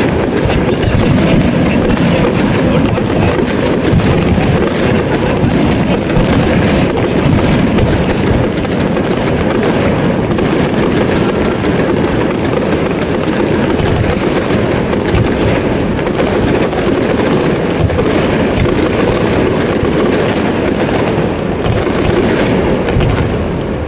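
Big aerial fireworks display going off without a break: many loud bangs and crackles overlapping one another.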